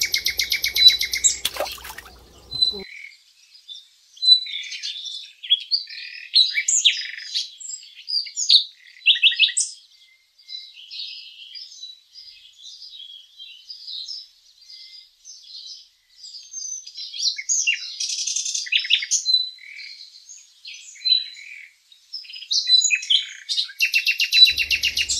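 Small birds chirping: many short calls one after another, with a fast rattling trill near the start and again near the end.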